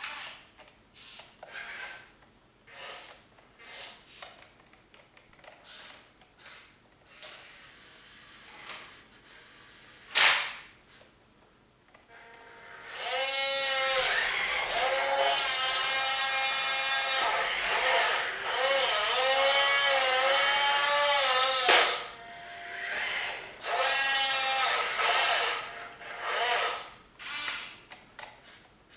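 Small electric motors and plastic gearboxes of a 1/14 scale Hobby Engine RC log loader whining: short spurts at first, then a loud, steady run of about nine seconds whose pitch dips and rises as the speed changes, then short spurts again. A single sharp clack about ten seconds in.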